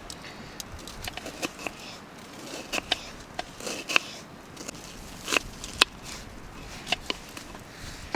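Campfire wood crackling, with irregular sharp pops and snaps.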